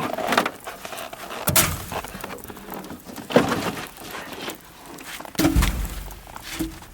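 Split firewood logs knocking and thudding as they are loaded into a wood boiler's firebox: a few heavy knocks about two seconds apart, with lighter wooden clatter between them.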